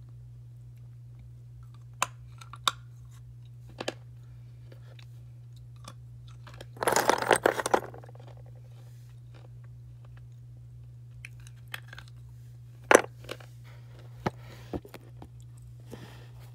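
Slate pencils being bitten and chewed, crunching. Scattered sharp cracks give way to a dense, loud burst of crunching about halfway through, then one loud crack and a few smaller ones. A steady low hum runs underneath.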